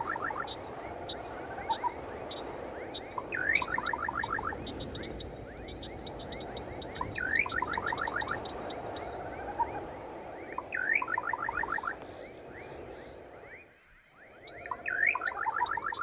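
A night-time natural soundscape: a bird call repeats about every three and a half seconds, each a rising note followed by a quick run of about five notes. Behind it is a steady high chirring of crickets with a faint regular ticking, over a low rushing noise like wind.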